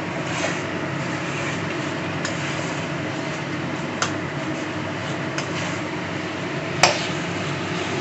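Metal spatula knocking against a pan now and then as chicken and potatoes are stirred and fried, over a steady cooking hum; the loudest knock comes near the end.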